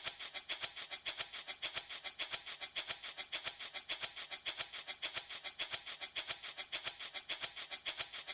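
Handmade wooden baby rattle shaken steadily in an even rhythm, about six or seven bright shakes a second.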